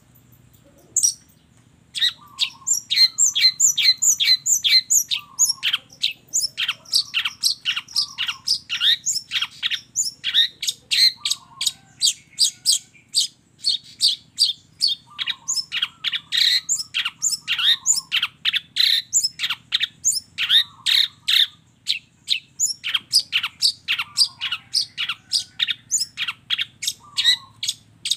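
Long-tailed shrike (cendet) singing a fast, unbroken string of sharp, downward-sweeping calls, several a second, in the mixed mimicry-filled song the keepers call 'isian'. A single call comes about a second in, and the run starts a second later.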